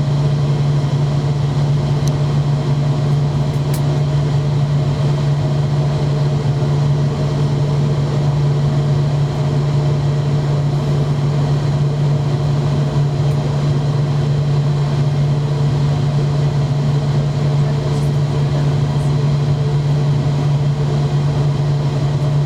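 McDonnell Douglas MD-90 airliner running with its IAE V2500 engines, a steady low hum with fainter steady higher tones above it, unchanging throughout.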